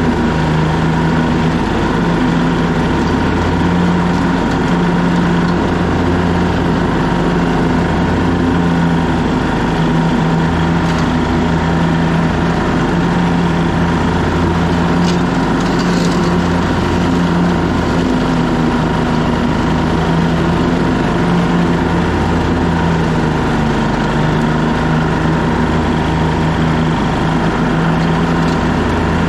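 Craftsman T1600 lawn tractor's engine running steadily with the mowing deck engaged, its pitch wavering slightly.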